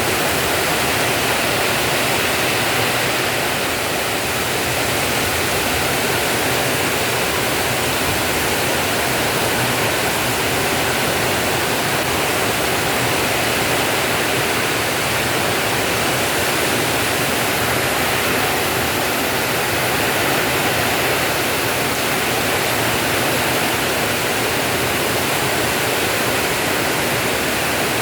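Heavy rain in strong wind: a steady downpour.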